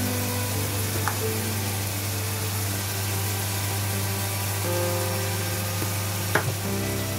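Ground beef sizzling in a saucepan, a steady hiss under background music. A sharp click comes a little before the end.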